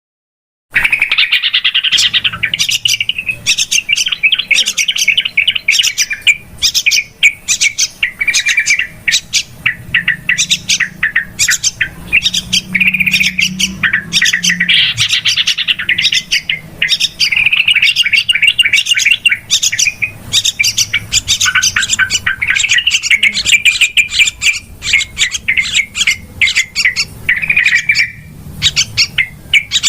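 Yellow-vented bulbuls (trucukan) calling noisily: a dense, continuous, rapid chattering of bubbly notes with quick clicky chips, starting just under a second in.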